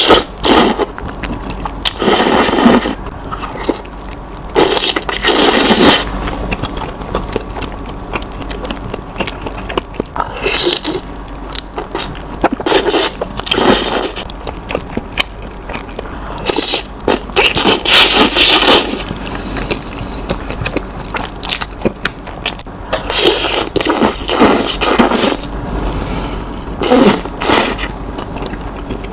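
Close-miked mukbang eating sounds: spicy Samyang noodles slurped in loud, irregular noisy bursts every few seconds, with quieter chewing and mouth noises between.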